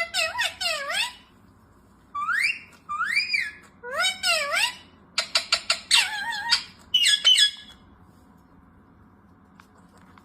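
A series of high-pitched animal squeals, each call gliding up and then down, in quick clusters that stop about seven and a half seconds in.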